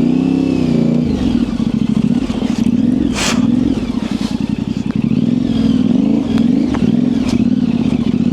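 Yamaha Ténéré 700's parallel-twin engine running at low revs, the revs rising and falling as the throttle is worked. A few sharp knocks cut through, the loudest about three seconds in.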